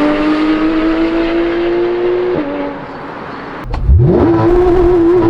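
Porsche GT3 RS 4.0-litre flat-six under hard acceleration, its pitch climbing steadily until an upshift about two seconds in. It then goes quieter off the throttle for about a second, gives a sharp crack, and the revs sweep quickly back up as it pulls hard again.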